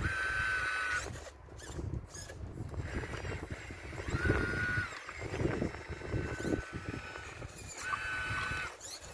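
RC model excavator's motors whining in three short steady spells as the machine moves, over irregular knocking and scraping of stones from the wall being broken up.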